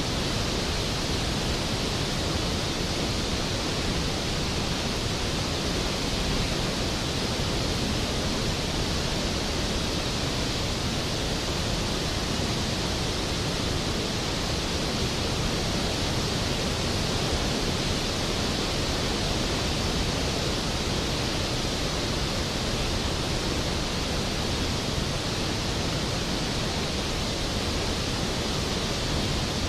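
Skógafoss waterfall: a large waterfall's water plunging into its pool, a steady, even rush of white noise.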